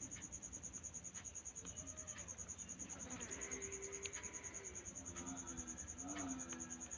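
Insects chirping in a steady, fast, even pulse, with a few faint clicks and a low drawn-out call near the end.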